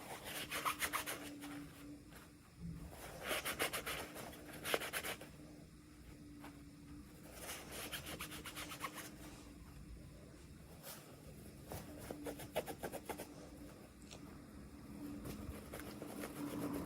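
Packaging being rubbed and handled by hands, in several short bursts of quick scratchy rubbing, over a faint steady hum.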